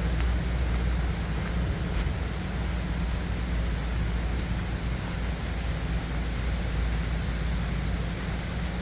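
Steady rushing noise of a small waterfall's water heard through the trees, with a low rumble under it and a faint tick or two.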